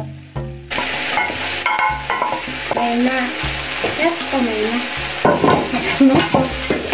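Small dried omena (dagaa) fish frying loudly in a tomato sauce in an aluminium pot, starting suddenly about a second in as the fish go in, while a wooden spoon stirs and scrapes them through the pan with some short squeaks.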